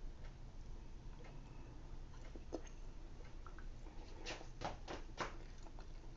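A person chewing a bite of pizza with its crust. The chewing is faint, with a few sharp clicks from the mouth and a run of four louder ones about four to five seconds in.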